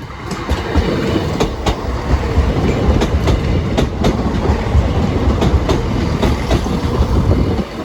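Passenger train passing over the level crossing at close range: a steady low rumble with repeated clacking as the wheels run over the rail joints and crossing.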